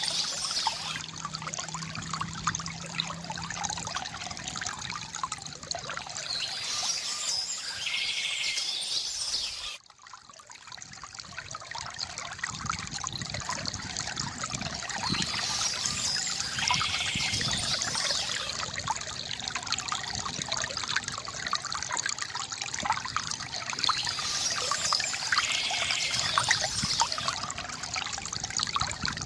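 Water from a bamboo fountain trickling and splashing steadily, with birds chirping every several seconds. The water sound cuts out abruptly about ten seconds in and swells back over the next couple of seconds.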